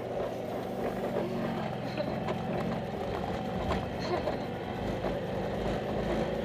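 A car engine running steadily while the car drives over rough grassy ground, with a few short knocks and rattles.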